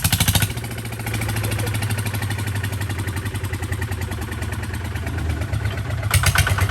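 Kubota tractor's diesel engine running steadily, with a short louder burst of noise at the start and again about six seconds in.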